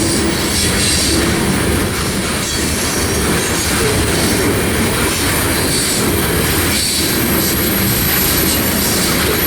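Freight train cars rolling past, a steady loud rumble of steel wheels on the rails, with short high squeals from the wheels now and then.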